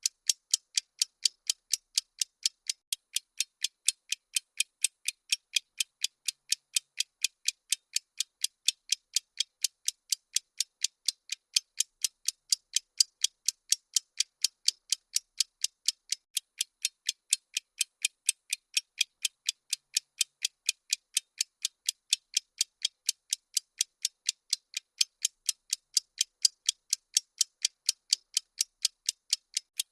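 Steady clock-like ticking sound effect of a countdown timer: sharp, high-pitched ticks at an even pace of a few per second.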